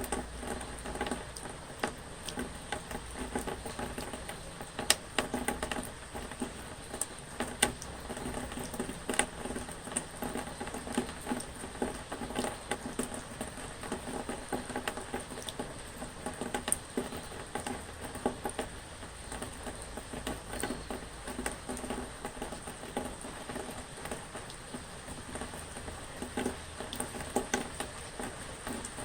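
Rain pattering on a surface: a dense, irregular run of drops and taps over a steady wash of noise.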